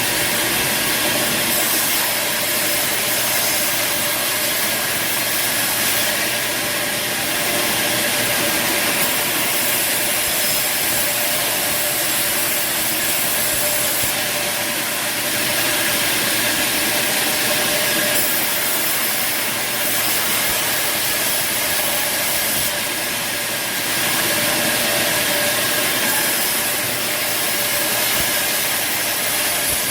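Band sawmill running, its blade cutting through timber: a steady mechanical hum under a loud hiss that shifts in level every few seconds.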